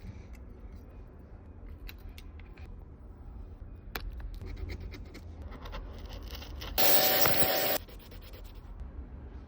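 Repair tools scraping and clicking against an iPad's glass and frame during a screen repair, with a loud hiss lasting about a second near the end.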